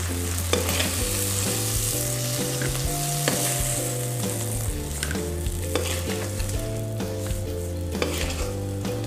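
Margarine and shrimp juices sizzling in a hot wok after frying, a steady hiss with a few light clicks of a utensil. Background music with a slow-moving melody runs underneath.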